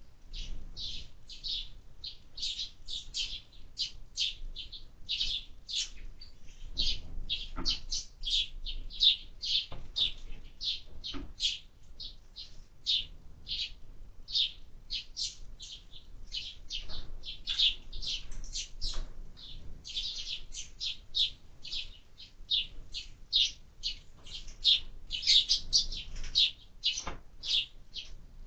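Sparrows chirping continuously, several short chirps a second, with a few faint knocks in between.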